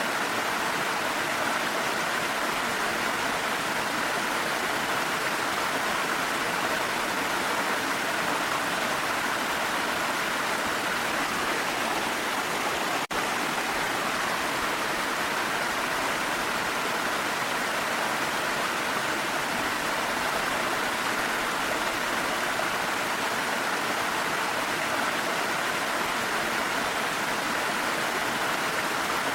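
Waterfall running steadily, an unbroken rush of falling water, with a momentary dropout about thirteen seconds in.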